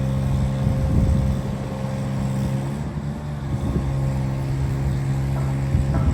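2008 GMC 7500 bucket truck's engine running at a steady speed, with irregular clunks and rattles about a second in and again near the end.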